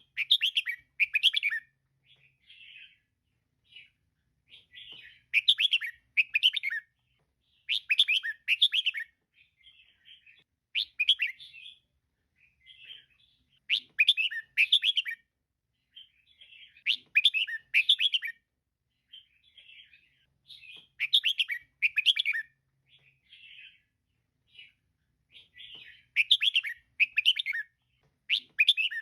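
Female red-whiskered bulbul calling: short bursts of quick chirps repeated about every three seconds, with softer chirps in between.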